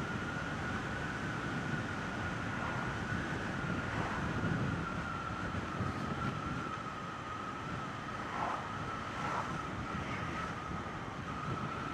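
Triumph Bonneville T120 motorcycle riding at a steady speed: wind rushing over the microphone with engine and road noise beneath, and a thin steady whistle on top.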